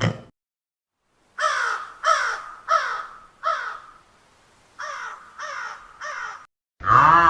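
A bird giving a run of harsh, falling calls: four loud ones about 0.7 s apart, then three fainter ones. Near the end a louder call of another kind begins.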